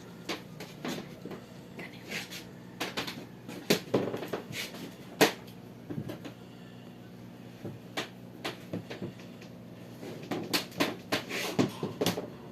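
Irregular short clicks and knocks with faint brief squeaks, over a low steady hum.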